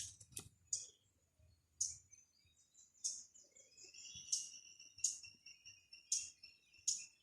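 Birds chirping: short, sharp high chirps about once a second, with a second, drawn-out call joining about halfway through.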